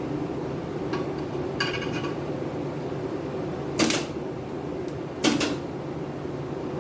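Light metal clinks and two sharp knocks about a second and a half apart, over a steady low hum, as exhaust parts and welding gear are handled.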